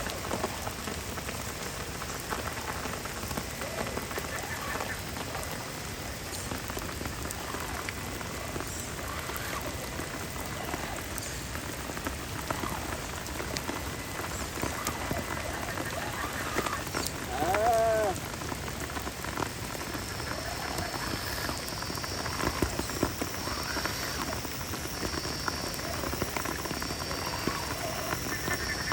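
Steady rain falling, an even hiss of drops throughout. About two-thirds of the way through a short pitched call rings out over it, and a thin high-pitched trill joins near the end.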